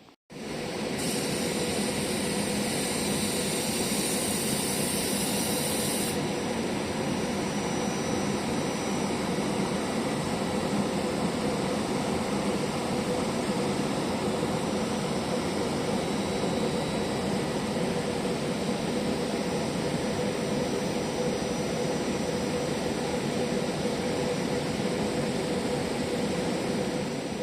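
Train running, a steady even rumble and hiss with a held hum throughout, and an added high hiss for the first few seconds.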